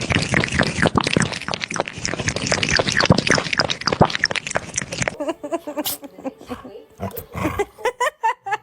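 Loud, harsh animal vocalising lasting about five seconds, then quieter pitched calls.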